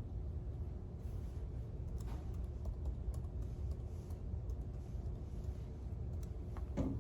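A few scattered light clicks from typing on a computer keyboard over a steady low hum, with the clearest click just before the end.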